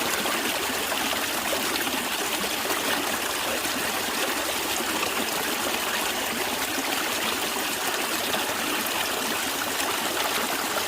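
A stream flowing steadily, water trickling and babbling over stones.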